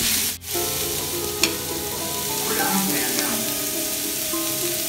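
Chopped onions sizzling as they sauté in oil in a nonstick frying pan, stirred with a spatula. The sound drops out briefly just under half a second in, and there is a sharp tap of the spatula against the pan about a second and a half in.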